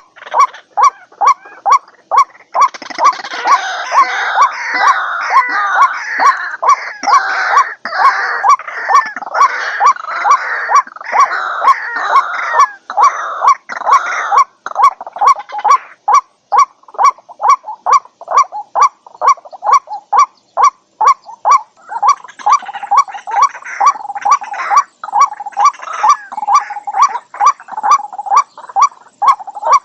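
White-breasted waterhens calling: one short call repeated steadily about two to three times a second, with a dense jumble of overlapping croaking calls over it for roughly the first half and again near the end.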